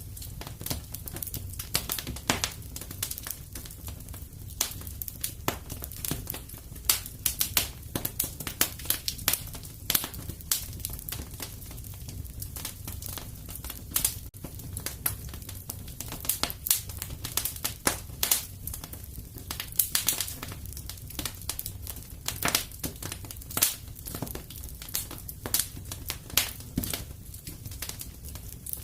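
Wood fire crackling and popping in a fireplace: irregular sharp snaps and pops, several a second, over a steady low rumble of the burning fire.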